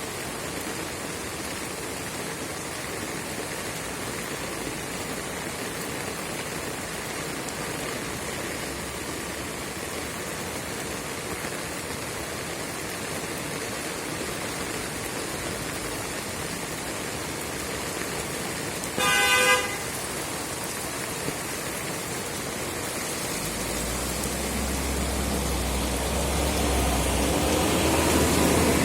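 Steady rain hissing, with a car horn tooting once, briefly and loudly, about two-thirds of the way through. Near the end a motor vehicle approaches, its engine rumble growing louder.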